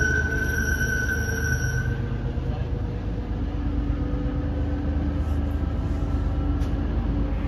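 MBTA diesel commuter train rumbling as it pulls away along the track. A high steady tone stops about two seconds in, leaving the low rumble of the departing train.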